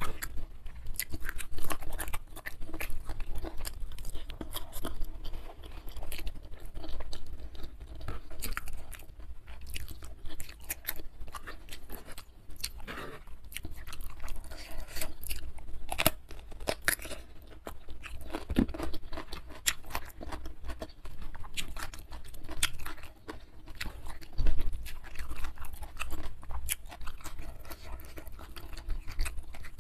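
Close-miked eating of a rice-and-chilli-sambal meal by hand: steady wet chewing and crunching with many small sharp mouth clicks and smacks, and a louder crunch about 24 seconds in.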